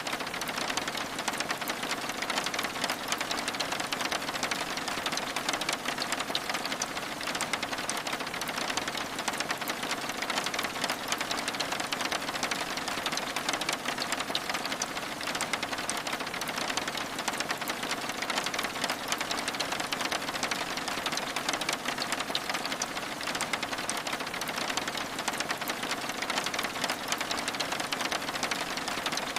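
Steady rain falling on window glass: a dense, even hiss of many fine drop ticks, with no break or change.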